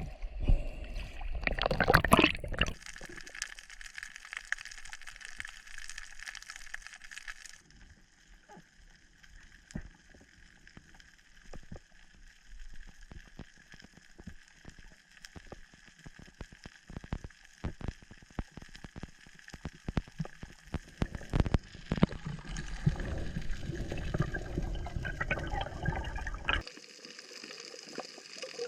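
Water gurgling and sloshing close to the microphone, with many short clicks and crackles. The sound changes abruptly about 8 seconds in and again near the end.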